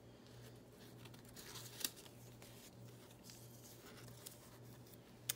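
Faint rustling of magazine paper being handled, with two small clicks, over a steady low hum.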